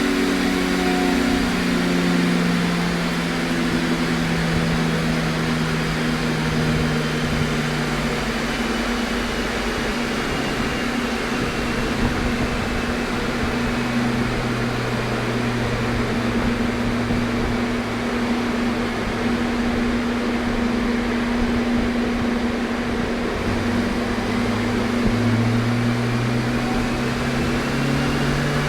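Car engine running on a chassis dynamometer between pulls. Its pitch falls slowly over the first half, holds low, and starts to rise again near the end, over a steady hum.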